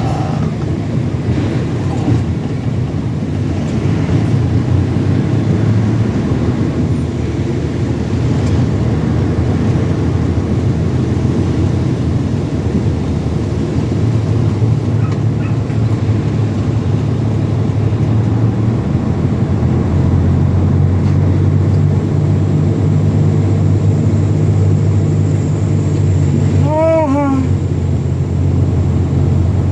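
Heavy truck engine running with a steady low drone. About 27 seconds in, a short series of quick chirps.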